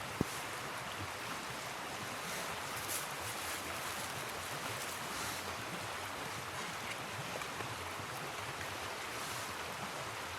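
Steady rush of flowing river water, with one sharp snap just after the start.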